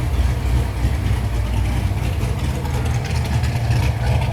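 2006 Corvette Z06's 7.0-litre LS7 V8 idling steadily with a deep, even rumble.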